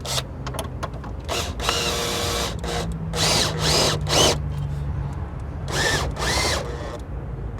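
Repeated short bursts of metal-on-metal grinding and squeaking as the new lower control arm is tapped and forced into its mounting. There are about eight bursts of uneven length, some with a squeaky rise and fall in pitch, over a steady low hum.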